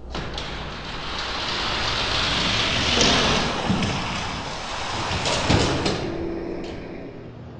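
Die-cast toy cars rolling down a plastic track, a continuous rattling whir with a few knocks and thuds as they run and come to a stop.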